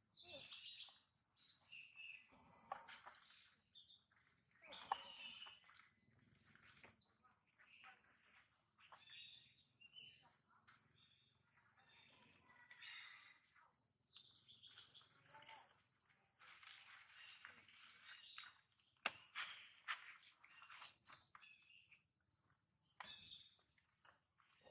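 Birds chirping in many short, high calls over a steady high-pitched hum, with scattered soft rustles and clicks.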